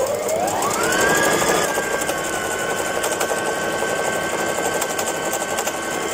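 Brother GS2700 sewing machine stitching a twin-needle decorative pattern: the motor whine rises over the first second and a half as the machine speeds up, then holds steady at running speed with its fast even needle ticking.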